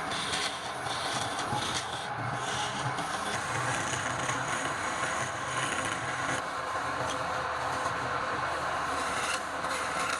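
Wood being turned on a lathe: a tool rubs and scrapes against the spinning wood with a steady rasping sound.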